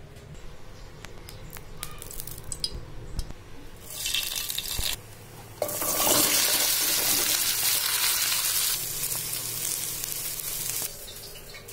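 Chopped okra sizzling in hot oil with cumin seeds in a wok: a short sizzle about four seconds in, then a loud steady sizzle from about halfway that stops suddenly near the end.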